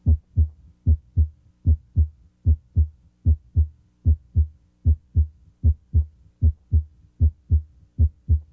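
Heart sounds auscultated at the mitral area: a steady lub-dub of paired low, dull thuds, S1 then S2, about 75 beats a minute. S1 here comes from closure of the mitral valve.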